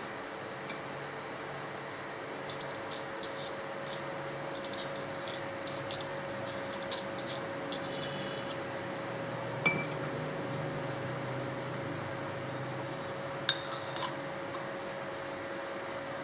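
Small hard parts clicking and clinking as they are handled: a run of light clicks, then two louder single clinks, over a steady background hum.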